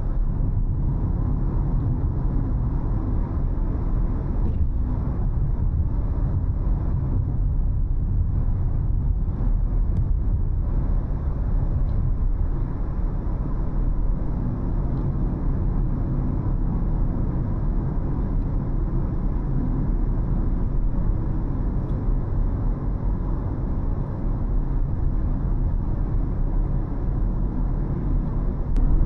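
Steady low rumble of a car driving: road and engine noise, even throughout with no sudden events.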